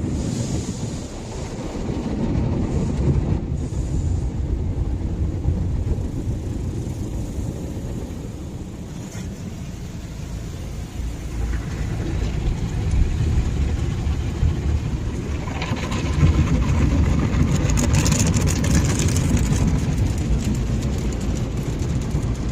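Ryko Softgloss MAXX soft-touch car wash running, a steady low rumble of machinery and water on the car. A hissing spray swells about two-thirds of the way through, then eases.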